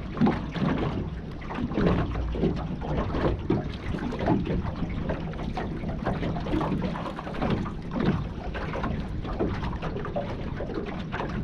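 Water sloshing and splashing at the river's edge, a run of irregular small splashes, with wind rumbling on the microphone.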